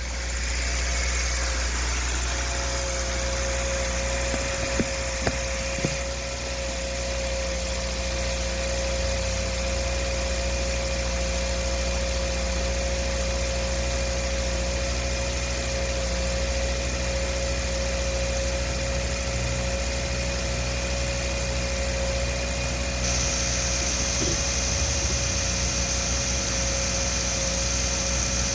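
2013 Subaru Legacy 2.5-litre flat-four engine idling steadily during a running test, with a few short clicks about five seconds in.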